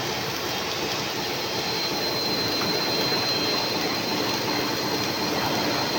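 Pipe-manufacturing machinery running: a steady industrial din, with a thin high whine joining in about two seconds in.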